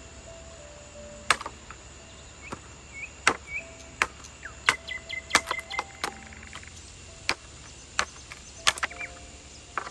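Chopping: about a dozen sharp strikes at irregular intervals, some in quick pairs, with birds chirping between them.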